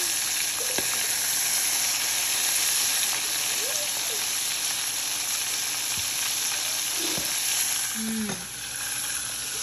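Breaded chicken pieces deep-frying in hot oil in a saucepan: a steady sizzle with a few light clicks from metal tongs. The sizzle eases off near the end.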